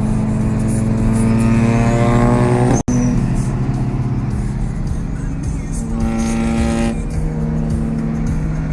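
Car engine accelerating, its pitch climbing for about a second and a half before a momentary break in the sound, then running on steadily, over background music.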